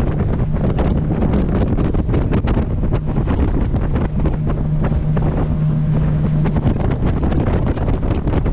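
Heavy wind buffeting the microphone on a moving motorboat, over the steady hum of its engine, which grows louder for a couple of seconds past the middle. Water splashes and slaps against the hull throughout.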